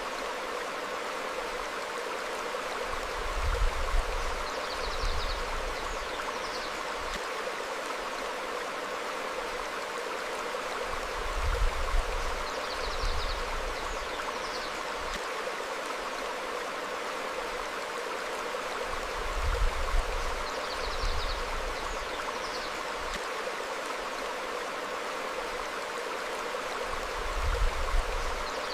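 Small stream flowing over rocks, a steady rushing babble, with a few faint high bird chirps. Brief low rumbles recur about every eight seconds along with the chirps.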